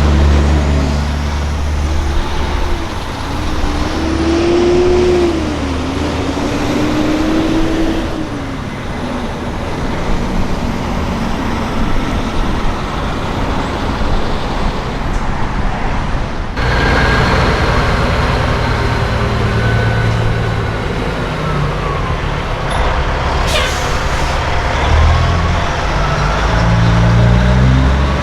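Diesel semi-truck engines running and pulling past, their pitch rising and falling as they rev through the gears. The sound changes abruptly a little past halfway, and there is one brief sharp sound about three-quarters of the way through.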